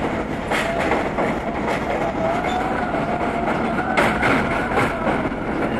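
R32 subway train running on the track, its wheels clicking over rail joints a few times, with a faint whine in the middle.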